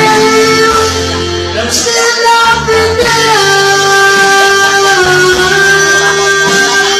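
A man singing over a backing music track at a family party, holding long sustained notes.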